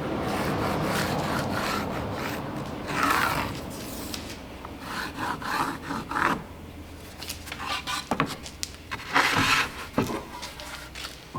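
Wood rubbing and scraping: a steady rasp for the first couple of seconds, then intermittent scrapes and a few sharp knocks as wooden pieces are handled.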